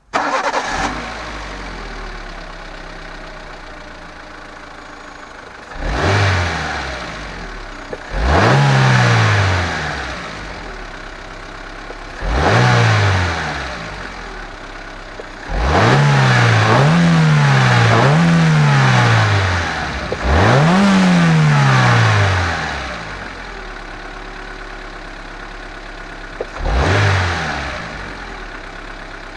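Suzuki Wagon R+ 1.3 petrol four-cylinder engine. It comes in suddenly at the start, running high and then settling to idle within a couple of seconds. It is then revved in about seven short blips, the pitch rising and dropping back to idle each time, with two quick revs back to back in the middle and a last short blip near the end.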